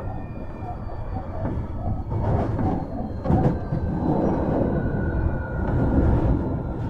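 Hankyu 1300 series electric train running, heard from inside the car: a steady low rumble of wheels on rail, with a few sharp clacks and a faint steady whine.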